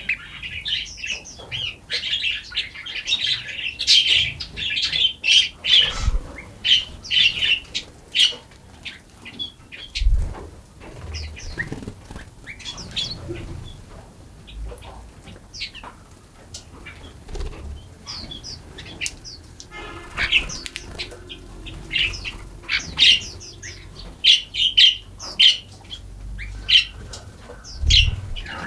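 Forest songbirds chirping and singing: a dense chorus of high chirps for the first six seconds, then scattered calls and short phrases. A few low thumps come about six seconds in, at about ten seconds, and near the end.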